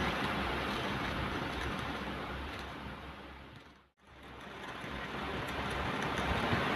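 Ocean waves breaking as a steady rushing surf, fading smoothly down to silence about four seconds in and swelling back up again.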